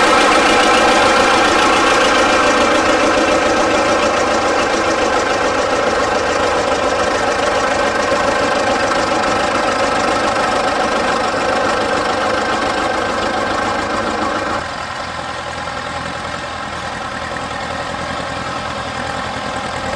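Vintage tractor engine running steadily, slowly getting quieter, with a sudden drop in level about fifteen seconds in.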